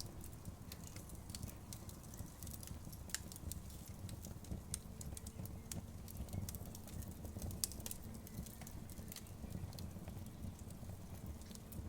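Wood fire burning: irregular sharp crackles and pops over a low, steady rumble.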